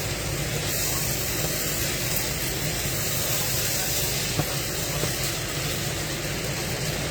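Steady hiss with a low hum beneath it, from something left running in the kitchen during cooking.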